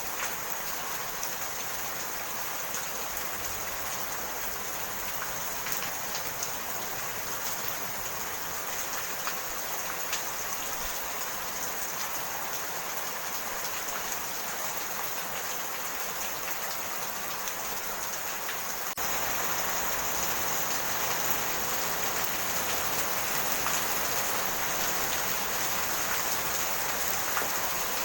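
Steady rain falling, with scattered drops ticking among the hiss; it turns suddenly a little louder about two-thirds of the way through.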